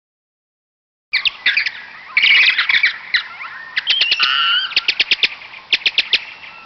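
Bats squeaking and chittering: rapid series of high, sharp chirps with a few short warbling squeals, starting about a second in after silence.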